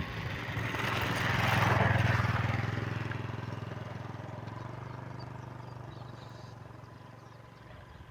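A motor vehicle engine passing by: its hum grows louder to a peak about two seconds in, then fades away slowly.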